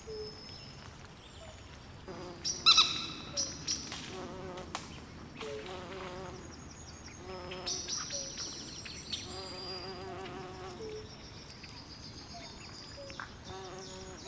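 Night swamp chorus of frogs and insects: repeated short, wavering trills and croaks with many high chirps over them, and one louder call with several pitches about three seconds in.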